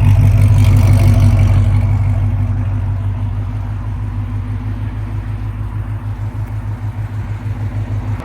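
Dodge Charger's HEMI V8 running with a loud, lumpy exhaust throb. It eases down from higher revs over the first few seconds into a steady pulsing idle.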